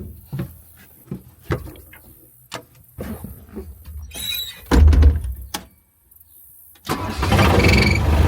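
A series of clicks and knocks, then a heavy thump about five seconds in. About seven seconds in, the Gehl 4635 skid steer's Deutz air-cooled diesel engine starts and settles into a steady run on its newly fitted engine mounts.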